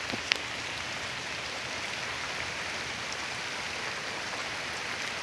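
Steady rain falling, an even hiss, with a single short tap just after the start.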